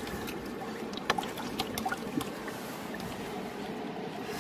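River water running over a shallow stony bed, with a few light clicks about a second in and near the middle.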